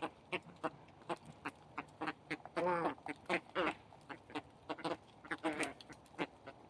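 A flock of birds calling: a busy run of short, sharp calls, with longer harsh, wavering calls about two and a half seconds in and again a second later.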